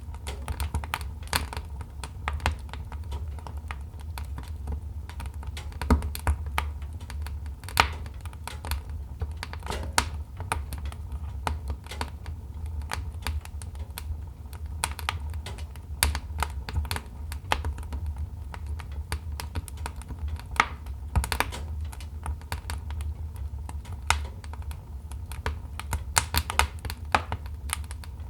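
Wood fire in a fireplace crackling, with irregular sharp pops and snaps, several a second, over a low steady rumble.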